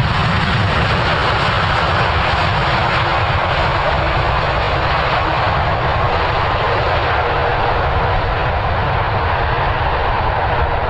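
Airbus A330 jet engines: a loud, steady rush over a deep rumble, with the highest hiss easing off a little in the second half.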